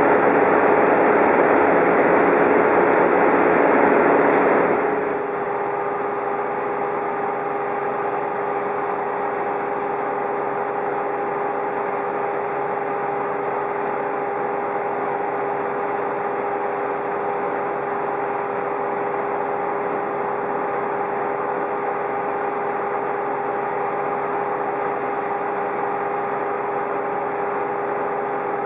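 Heavy machinery engine running steadily with a constant hum. About five seconds in it drops back to a quieter, steady idle.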